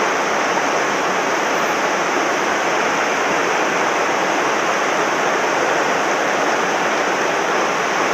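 Steady rush of a swollen mountain stream running high and fast after heavy rain.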